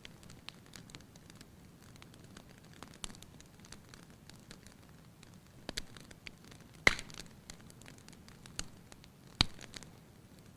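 Wood fire crackling in a fireplace: a steady run of small ticks and snaps, with two sharp loud pops about seven and nine and a half seconds in.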